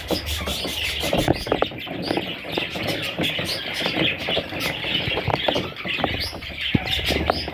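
Budgerigars chirping and chattering continuously, a dense mass of rapid overlapping chirps.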